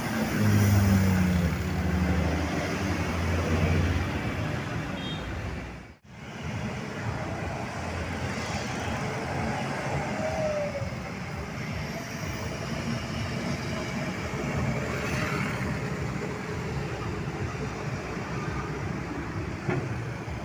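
Roadside traffic: a heavy vehicle's engine runs loudly with a low, steady hum for the first few seconds, then steady passing-traffic noise follows after a brief dropout about six seconds in.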